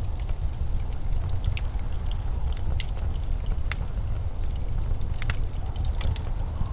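Steady blizzard wind with a deep low rumble, overlaid with scattered sharp crackles and ticks.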